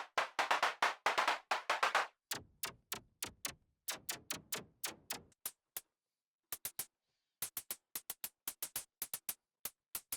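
Polymax software synthesizer preset playing a fast sequenced pattern of short, percussive plucks, about five a second. The notes are full and loud for the first two seconds, then thin out to bright clicky hits, stop briefly about six seconds in, and pick up again.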